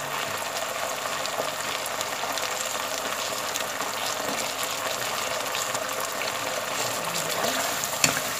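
Onion, garlic and tomato paste sizzling steadily in hot oil in a pot. Near the end a wooden spatula starts stirring, with a few sharp knocks against the pot.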